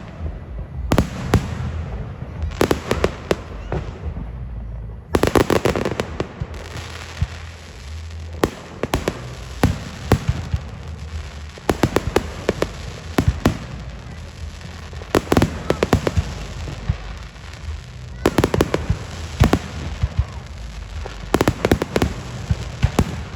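Aerial fireworks bursting in a rapid run of sharp bangs and crackles, in clusters every second or two, over a low rumble.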